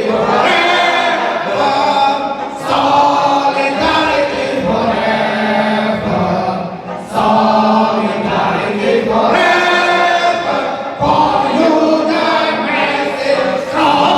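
A group of voices singing together like a choir, in long phrases with brief breaks between them.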